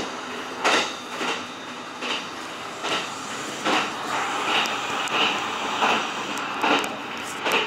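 Kintetsu limited express train running at speed, heard inside the driver's cab: a steady rolling rumble with a clack of the wheels over rail joints about every 0.8 seconds.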